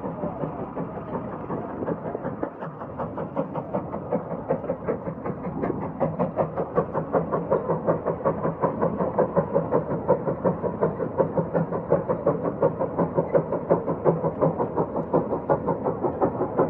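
Case 150 steam traction engine working hard under the load of a 44-bottom plow, its exhaust chuffing in a steady, even beat that grows louder about six seconds in.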